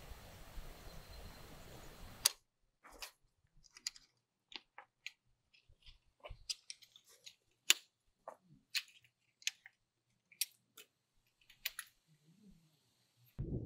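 Steady outdoor background noise, then after a cut about two seconds in, a run of irregular sharp clicks and light taps against near silence, as of small hard objects being handled.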